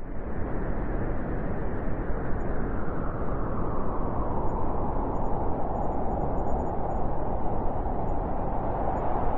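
Wind blowing steadily, a continuous rushing noise.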